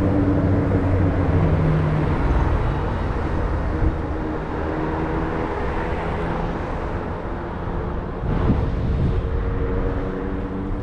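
City street traffic heard from a moving bicycle: a steady rush of road and wind noise, with a vehicle engine's hum fading away in the first couple of seconds and another faint engine hum coming in during the second half.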